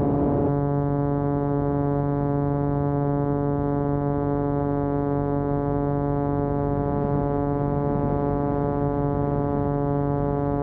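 Cessna 185's six-cylinder piston engine and propeller at climb power just after takeoff, a steady drone. A rougher, noisier sound settles into the even drone about half a second in.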